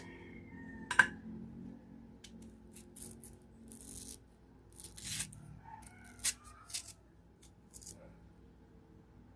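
Knife peeling and cutting a crunchy fresh mango: a sharp knock about a second in, then a handful of short crisp cuts and scrapes that die away after about seven seconds.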